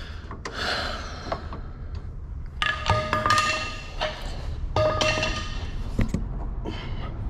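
Metal parts scraping and ringing as suspension hardware is worked against a stuck fit: two ringing stretches a little over a second apart, then a sharp click.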